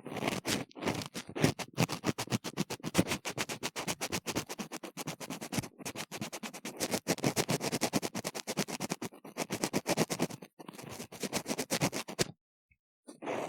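Ear-cleaning tool scraping vigorously inside a silicone ear model close to the microphone: quick, repeated scratching strokes, pausing for about a second near the end.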